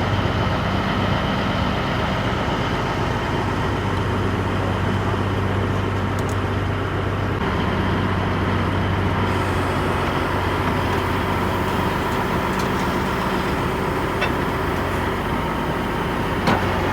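A motor vehicle running steadily, a constant low engine hum with road or traffic noise.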